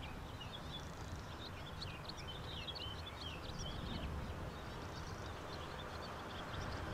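Small birds chirping and twittering in quick, busy runs over a low steady rumble.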